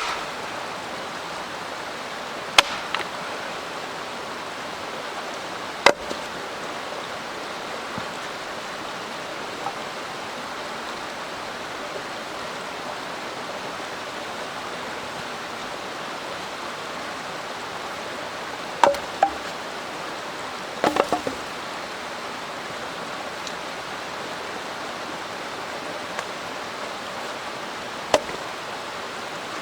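Steady rushing of a mountain stream. Scattered sharp clicks and knocks sound over it: a few in the first six seconds, a small cluster about two-thirds of the way in, and one near the end.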